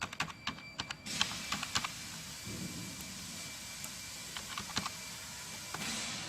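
Computer keyboard typing: irregular key clicks, with a steady hiss joining in about a second in and fading near the end.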